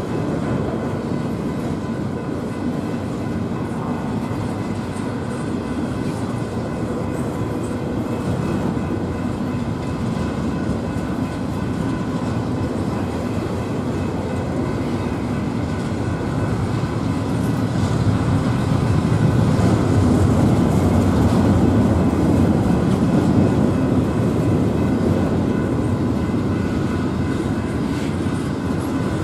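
Double-stack intermodal container train rolling past, a steady noise of wheels on rail. It grows louder for a few seconds in the latter half.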